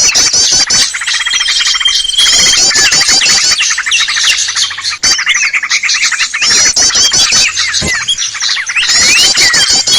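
Bird-lure recording for small birds: a loud, dense chorus of many small birds chirping and calling over one another, with fast repeated trills and a held whistled note about a second in.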